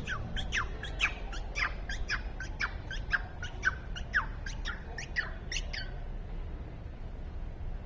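Bird calling: a fast run of sharp chirps, each sweeping down in pitch, about two or three a second, that stops about six seconds in.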